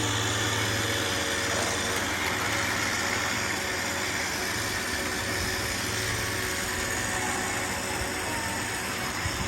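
Robot vacuums running: a steady whir of suction fans and brushes, with a low hum that swells and fades several times.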